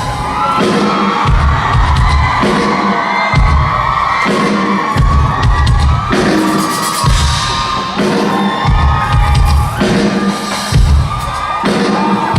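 Amplified pop music at a live concert, heard from the audience: a heavy bass beat repeating about once a second, with the crowd screaming and cheering over it.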